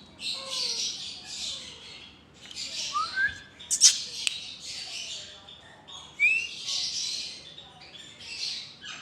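Pet parrots squawking, a run of harsh screeching calls in short bursts, with a couple of short rising whistled notes and a sharp click about four seconds in.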